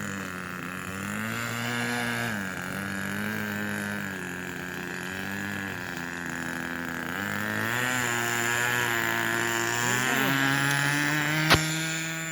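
O.S. .20 two-stroke glow engine of an RC model airplane running during the takeoff roll and lift-off, its pitch swinging up and down several times and then settling higher about three-quarters of the way through. A single sharp click comes near the end.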